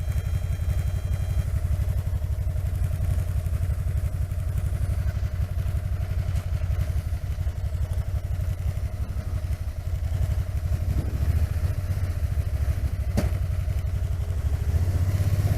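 Can-Am Spyder RT three-wheeled motorcycle's engine running steadily at low revs, a fast even low throb, heard through a helmet-mounted camera. A single sharp click sounds about 13 seconds in.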